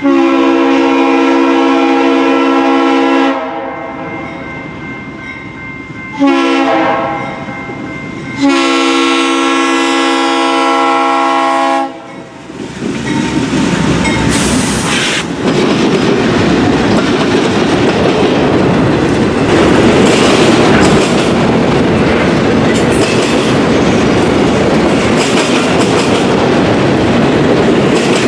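A Norfolk Southern freight locomotive's air horn sounds a chord in a long blast, a short blast and another long blast for the grade crossing. About twelve seconds in, the locomotive passes, followed by a steady rumble and clatter of wheels on the rails as the autorack cars roll by.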